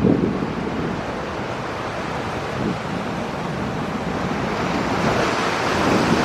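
A steady rushing noise with wind buffeting the microphone, growing a little louder near the end.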